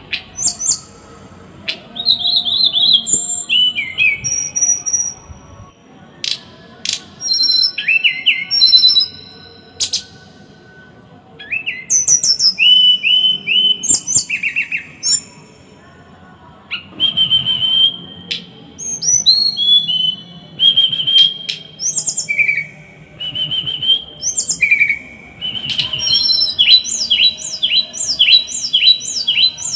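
A small songbird singing in bursts of sharp, quickly repeated falling notes with short pauses between phrases, ending in a fast run of about three to four falling notes a second. This is the dense, harsh 'tembakan' (volley) song that keepers play to train cage birds.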